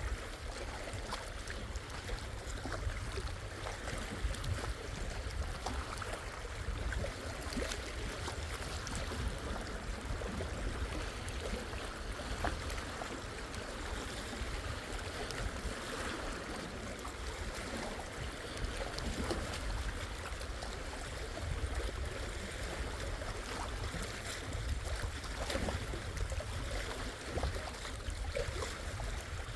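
Gentle waves on Lake Superior lapping at the shore, a steady wash of water with small splashes and trickles and soft swells in level.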